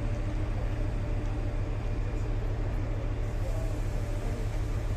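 Trenitalia BTR 813 bimodal Stadler FLIRT train running as it pulls away, a steady low rumble with a faint hum.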